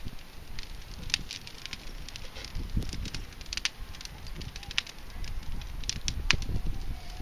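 Bonfire crackling, with irregular sharp pops over a low rumble.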